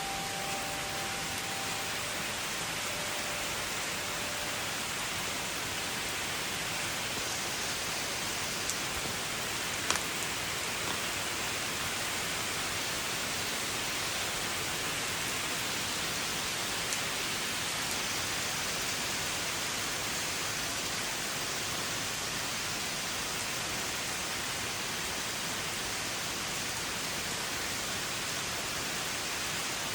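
Steady heavy rain falling during a thunderstorm, an even hiss with a few sharp ticks of drops or debris striking.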